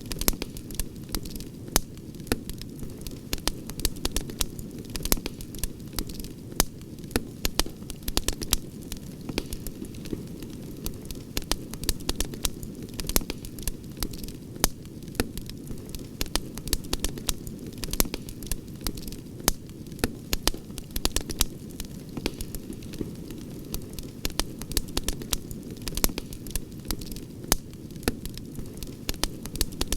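Wood campfire crackling: frequent, irregular sharp pops and snaps over a steady low rumble.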